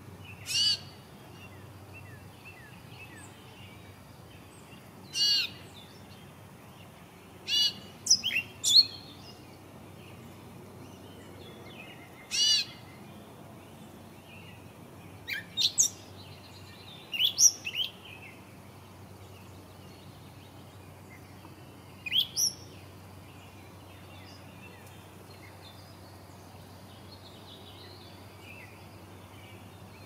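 Short, high, chirpy bird calls repeating on and off, some in quick twos or threes, over a faint steady background hiss.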